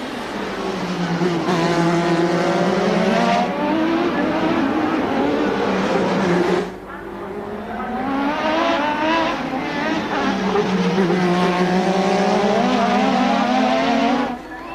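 1988 Formula One car engine at high revs, its pitch repeatedly falling and climbing again as the car brakes, shifts and accelerates, with two sudden drops where the note falls away before picking up again.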